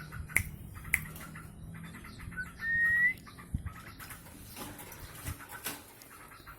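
A single short whistled note, rising slightly, about two and a half seconds in, with scattered small clicks and taps around it.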